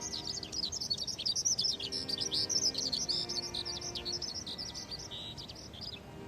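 Birds chirping and twittering in a dense, overlapping run of quick high chirps that thins out near the end.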